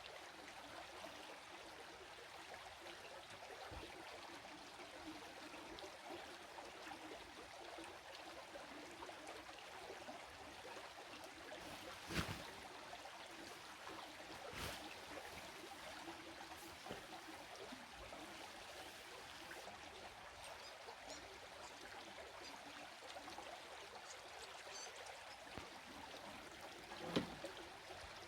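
Faint, steady flow of a small stream trickling. A couple of sharp knocks stand out, one about twelve seconds in and another near the end.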